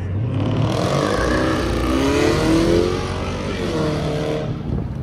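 A car engine revving hard as it accelerates, its pitch climbing for a couple of seconds, then a second, shorter rev that cuts off near the end.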